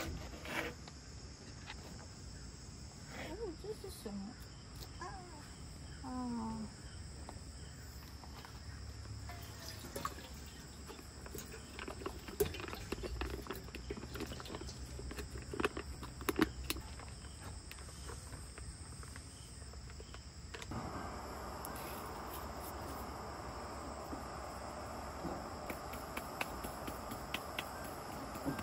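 Insects chirring in a steady high chorus, with scattered light clicks and knocks. About three quarters of the way through, a steady hiss starts suddenly and runs on.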